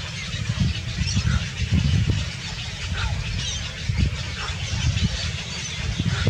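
Small birds chirping in scattered short calls over a loud, uneven low rumble.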